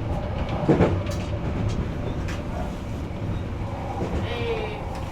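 Odakyu electric train running along the track: a steady low rumble with irregular wheel clicks, and one louder knock about a second in.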